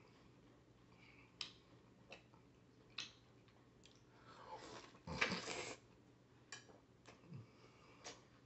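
Wet mouth sounds of chewing juicy watermelon: a string of short clicks and smacks, and one louder, longer sound about five seconds in.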